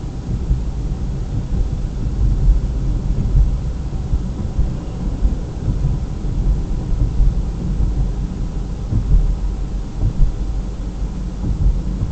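Low, gusting rumble of wind buffeting the microphone, steady throughout with uneven swells.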